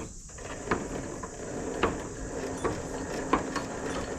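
Trailer winch running, a steady motor whine with a few sharp clicks and clanks as it pulls in cable.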